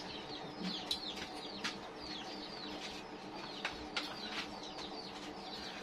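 Birds chirping: many short, high, falling peeps, repeating throughout, with a few sharp clinks of spoons on plates.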